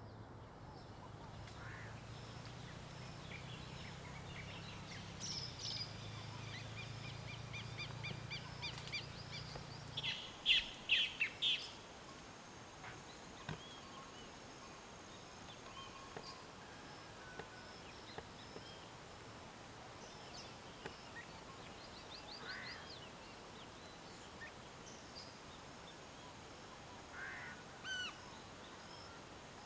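Wild birds calling and chirping: a cluster of rapid repeated chirps and trills about five to eleven seconds in, loudest around ten seconds in, with scattered single calls later on.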